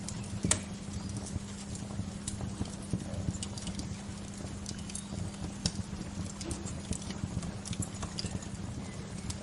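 Wood fire crackling: irregular sharp snaps and pops, a louder one about half a second in, over a steady low hum.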